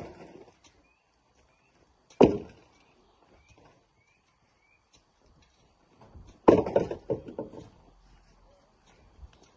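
Heavy rocks thumping down, likely into a dump truck's bed: one sharp thud about two seconds in, and another about six and a half seconds in that is followed by a short clatter of smaller stones.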